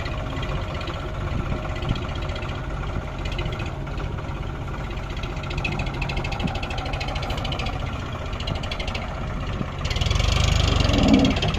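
Tractor diesel engine running steadily with a rapid, even firing beat, growing louder and harsher about ten seconds in as it works harder.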